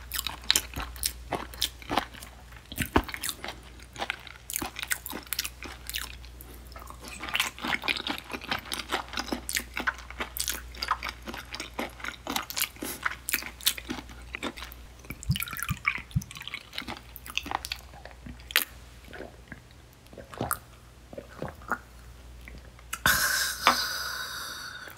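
Close-miked chewing of raw silver pomfret (butterfish) sashimi: wet, firm bites with many sharp mouth clicks and smacks. Near the end, a short loud voiced exhale.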